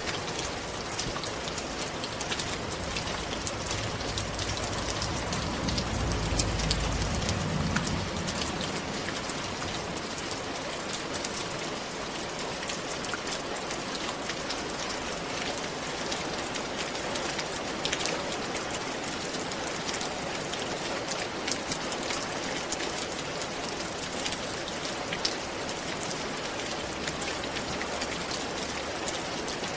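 Steady rain falling on a roof: an even hiss spotted with the sharp ticks of single drops. A low rumble swells and fades about five to eight seconds in.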